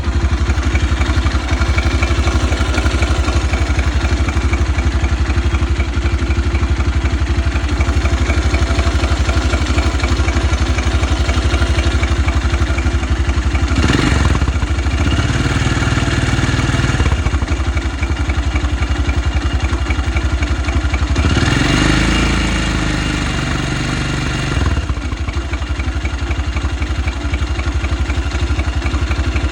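Geon 250 motorcycle engine idling with a knock that the owner cannot explain, revved briefly twice, about halfway through and again a few seconds later.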